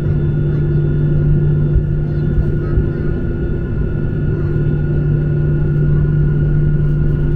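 Boeing 737-800 cabin noise during takeoff: the CFM56 jet engines and airflow make a steady, loud rumble with a constant low drone and a few held higher tones.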